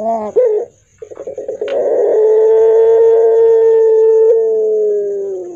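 Puter pelung dove cooing: the end of a short call, then about a second in a long, drawn-out hoarse coo held at one pitch for about four seconds, sagging slightly just before it stops.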